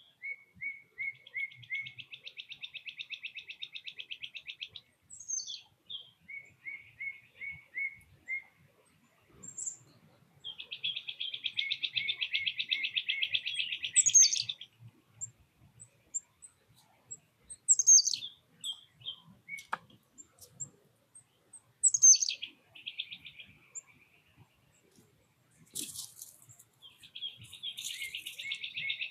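Songbirds singing: long, fast, buzzy trills of three to four seconds alternate with runs of short repeated notes and quick whistles that sweep steeply downward. A single sharp tick comes about two-thirds of the way through.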